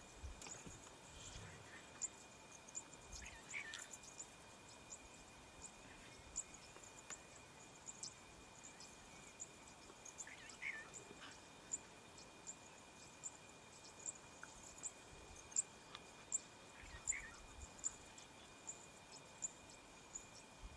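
Quiet bush ambience: a steady high insect drone with regular sharp high chirps about every three quarters of a second. Three short falling bird calls come several seconds apart.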